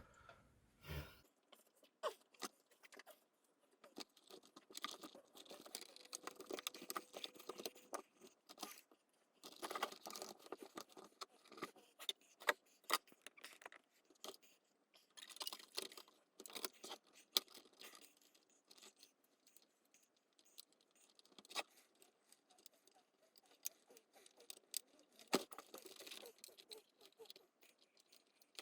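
Faint, irregular clicks, taps and scrapes of the plastic casing and small parts of a Nespresso Citiz coffee machine being handled and fitted back together.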